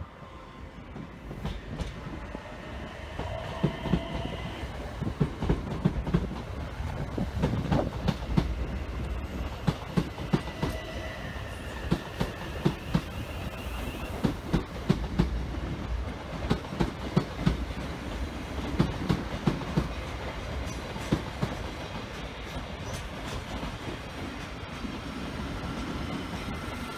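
A train rolling by, its wheels clattering over rail joints in a long run of sharp clicks, with brief faint squeals from the wheels.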